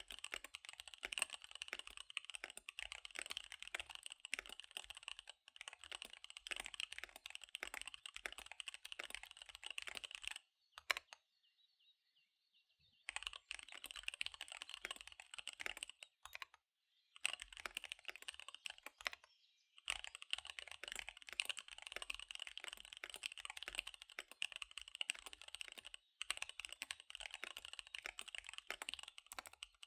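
Fast typing on a KBD75 V3 mechanical keyboard with SP-Star Dark Magic Girl tactile switches and DSA keycaps: a rapid, dense stream of key clacks. The typing breaks off for about two seconds roughly a third of the way in, and pauses briefly twice more.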